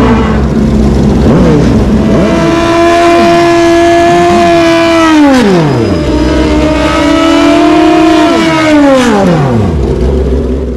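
Racing motorcycle engines running loud at high, steady revs, more than one engine at once. The pitch falls sharply about five and a half seconds in and again about nine seconds in, then the sound cuts off suddenly at the end.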